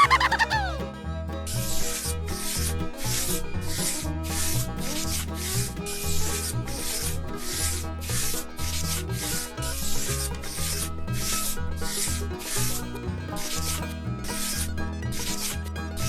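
Rhythmic scraping strokes, about two a second, as of a surface being sanded or rubbed down by hand.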